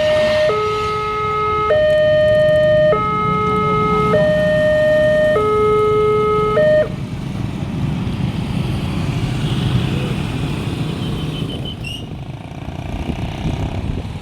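Railway level-crossing alarm on a KYOSAN x LEN crossing gate sounding a two-tone alternating warning, switching between a lower and a higher tone about every 1.2 seconds. It stops abruptly about 7 seconds in, leaving a low rumble. The uploader takes the alarm for an older-version WANTECH unit.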